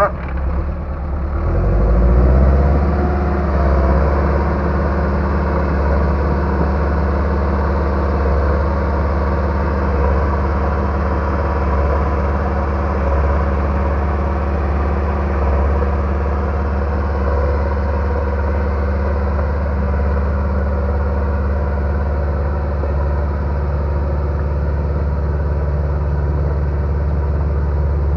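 Bulldozer's diesel engine running steadily, revving up a little about two seconds in and then holding an even pace.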